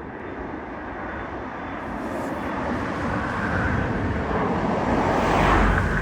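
Jet airliner's engines at take-off power: a broad rushing roar that grows steadily louder, loudest near the end.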